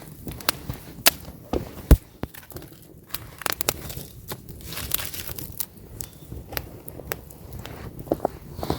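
Wood campfire crackling: burning logs give irregular sharp pops and snaps over a soft hiss, with one louder snap about two seconds in.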